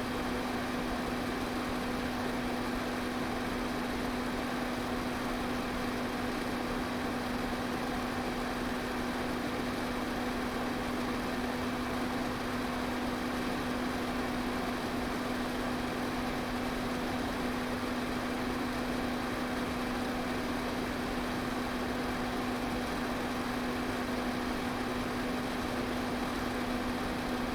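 Electric fan running steadily: an even rush of air over a constant low hum from its motor.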